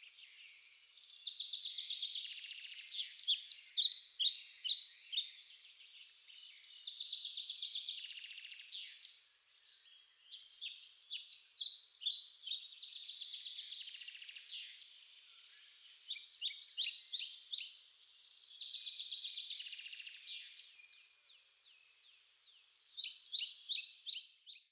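A songbird singing in repeated phrases of fast trills and quick chirps, each phrase a few seconds long with short pauses between them. The song cuts off abruptly at the end.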